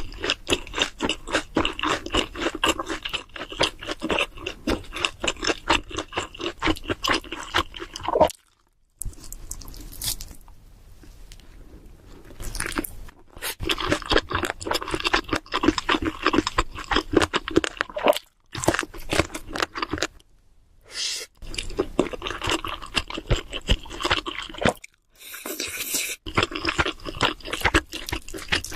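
Close-miked chewing of cheese seafood pizza: rapid crunching of the crust and moist chewing. It is broken by a few brief pauses and a longer quieter stretch about a third of the way in.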